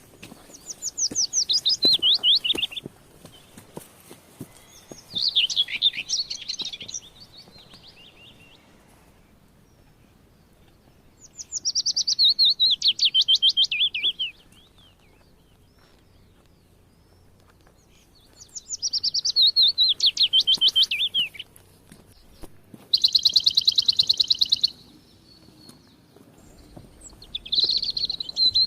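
Forest bird singing: loud phrases of rapid notes stepping down in pitch, each lasting two to three seconds and repeated every six or seven seconds, with one steady fast trill between the last two phrases.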